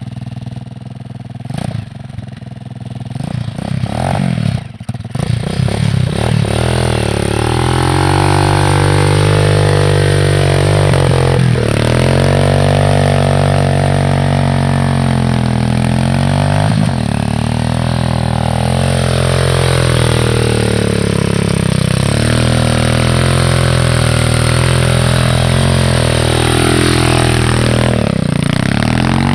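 Pit bike's single-cylinder engine, quieter at first with a few knocks, then running loud at high revs from about six seconds in, its pitch dipping and rising again a few times.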